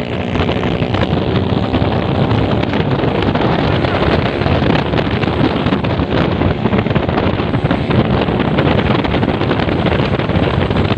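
A truck driving on the road, its engine running under heavy wind buffeting on the microphone.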